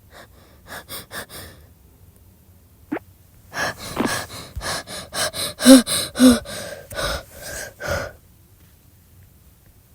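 A person breathing hard in quick gasps, in two spells: a short one about a second in and a longer, louder one from about three and a half to eight seconds, with a couple of voiced catches in the breath.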